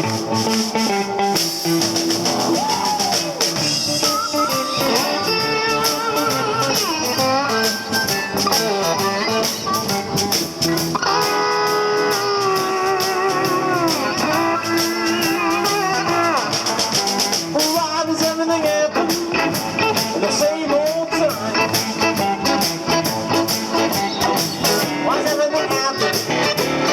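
Blues band playing: a guitar lead with bent, wavering notes over drums and a shaker rhythm.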